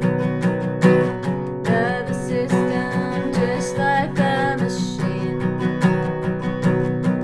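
Acoustic guitar strummed in a steady rhythm, with a wavering melody line over it about two to five seconds in.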